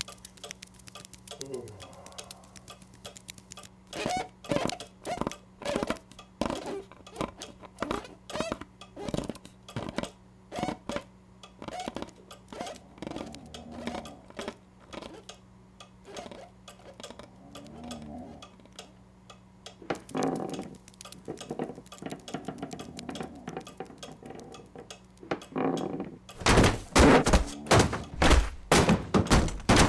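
Cartoon sound effects: scattered light taps and knocks over a steady low hum, with a short falling squeak near the start. About 26 seconds in comes a fast run of loud thumps.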